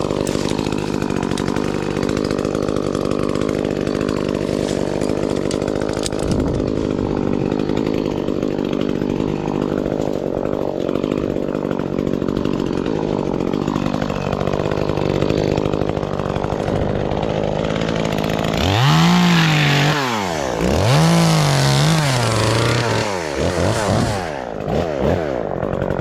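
Gas chainsaw engine running steadily at a low speed, then revving up and down about three times during the last several seconds.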